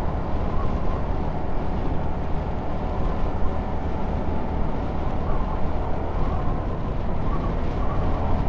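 CFMoto 250NK single-cylinder motorcycle engine running at a steady cruise of about 50 km/h, mixed with wind rushing over the rider's camera microphone.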